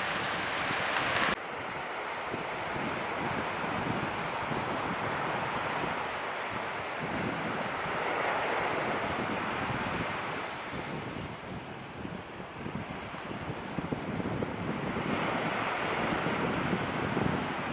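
Surf washing onto a beach, swelling and ebbing in slow waves, with wind buffeting the microphone. The sound changes abruptly about a second in.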